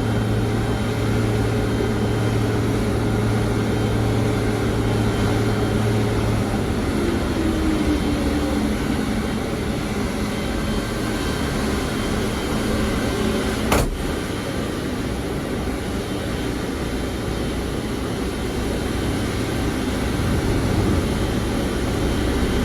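Steady drone of aircraft and ground machinery on an airport apron, with a low hum that drops away about six seconds in and a single sharp click near the middle.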